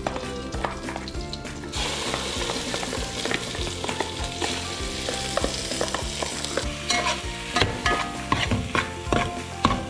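Melted butter sizzling in an aluminium pot as mashed potato is dropped in and stirred, with the metal ladle scraping and clicking against the pot. The sizzle is strongest from about two seconds in to about seven, and the ladle's scrapes and knocks take over near the end.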